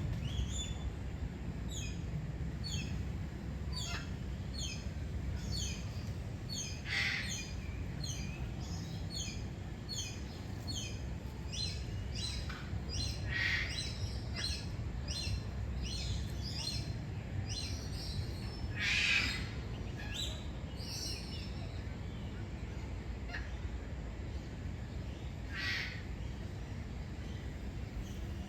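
Birds calling: a steady series of short high chirps, about two a second, with four louder calls spread through, over a steady low rumble.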